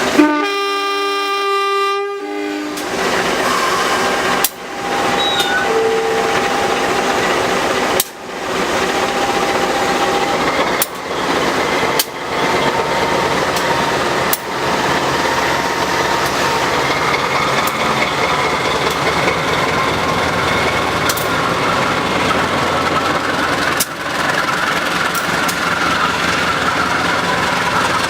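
A train horn sounds once for about two and a half seconds, then a train runs with a steady loud rushing rattle. Sharp clicks come a few times along the way.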